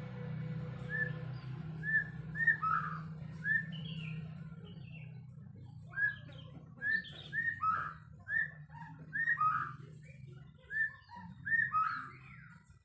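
White-rumped shama singing: a run of short, clear whistled notes and phrases, several a second at its busiest, over a steady low hum.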